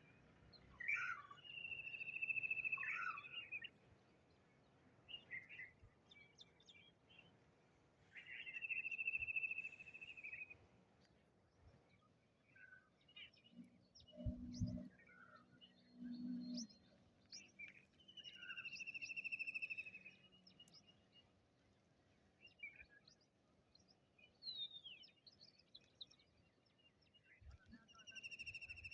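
Birds singing: one bird repeats a long, level high note lasting about two seconds, roughly every eight or nine seconds, with scattered short chirps from other birds in between. Two brief low calls sound about halfway through.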